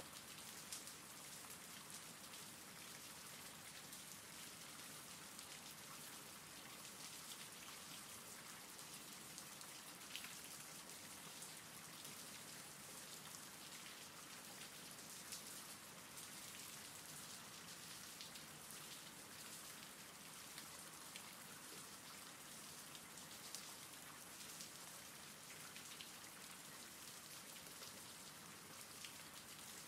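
Faint rain ambience track: a steady soft hiss of rain with scattered light drop ticks.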